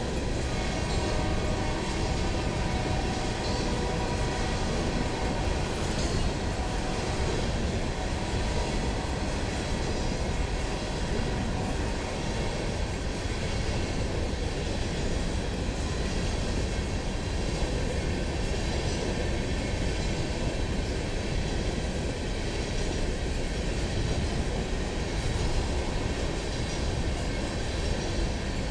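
Long train of empty coal hopper cars rolling past, a steady noise of steel wheels on the rails.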